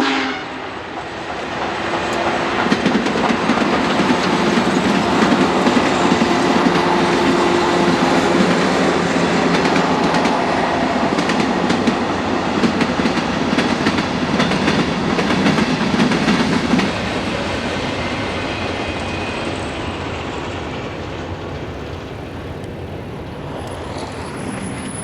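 Union Pacific Big Boy No. 4014, a 4-8-8-4 articulated steam locomotive, passes with its train. The sound builds over the first two seconds and stays loud with steady wheel clatter over the rail joints as the cars roll by. It then fades gradually from about two-thirds of the way in.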